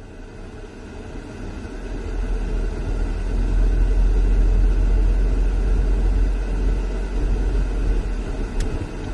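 A car being driven: a steady low rumble of engine and road noise that builds over the first few seconds and holds, easing slightly near the end.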